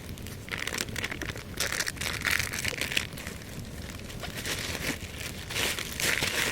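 Crackling and crinkling of dry kindling at a small fire in the woods, in two spells of about two seconds each, about half a second and four and a half seconds in.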